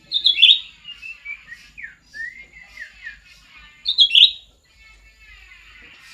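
White-rumped shama singing: a loud, rapid burst of song at the start and again about four seconds in, with a run of varied sliding whistled notes between.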